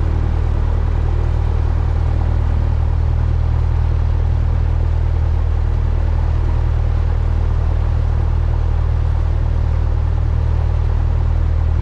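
Cessna 172's piston engine and propeller running at a steady speed, a loud, even low drone heard from inside the cabin.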